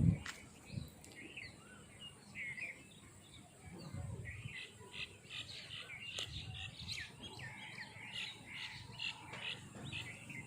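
Small birds chirping, many short calls in quick succession that grow thicker about four seconds in.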